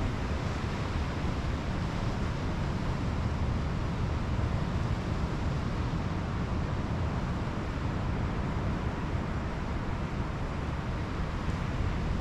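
Steady roar of ocean surf with wind, an even wash of noise that holds at one level with no distinct events.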